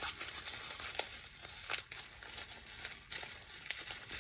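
Packaging crinkling as small items are unwrapped and handled, with a few light clicks and taps.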